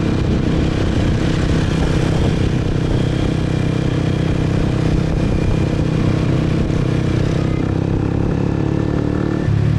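Motorcycle engine running steadily while riding in traffic. Near the end the engine note shifts and gets a little louder.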